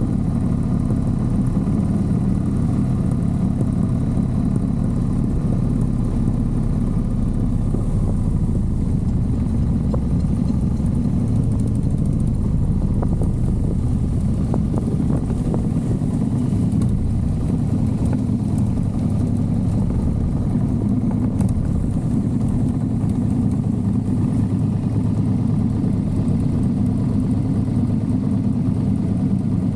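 Motorcycle engine running at a steady, even pitch while riding, with no clear revving or gear changes.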